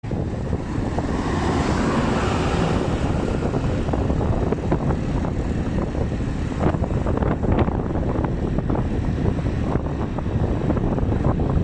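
Steady rumbling noise, heaviest in the low end, with a brighter rush in the first few seconds and scattered crackles later: wind buffeting the microphone, with possibly a vehicle or boat engine underneath.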